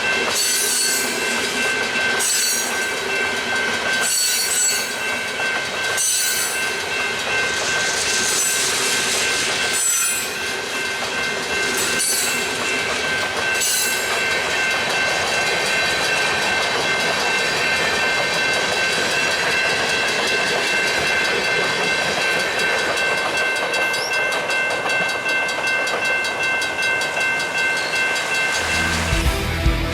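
Freight train cars rolling past, the wheels clicking over rail joints about every two seconds, with steady high ringing tones held over the rolling noise until near the end.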